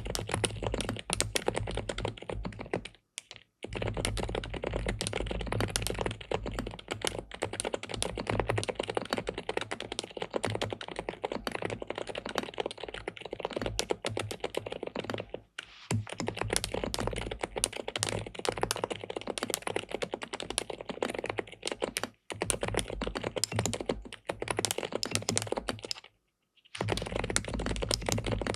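Fast, continuous typing on an SPM PL87W (Mongdol 87) tenkeyless mechanical keyboard with linear switches in a PC plate. The keystrokes stop briefly four times.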